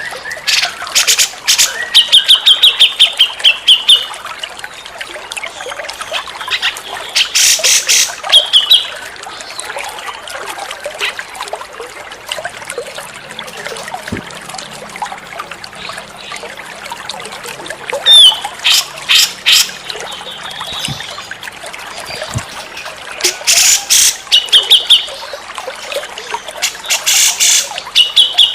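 Grey-cheeked bulbul (cucak jenggot) calling: loud bursts of fast, harsh chattering notes a few seconds apart, some followed by a short high trill, over a steady trickle of running water.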